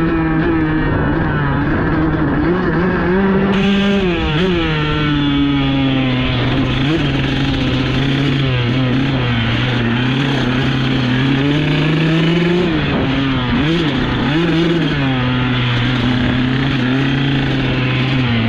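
Dirt bike engine running under load on a trail ride, the pitch rising and falling with the throttle, with a sudden drop in pitch about four seconds in.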